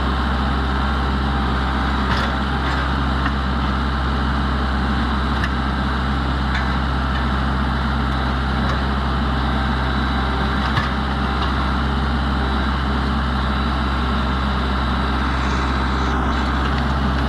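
Tractor engine running steadily at a constant speed, with a few faint clicks over the top.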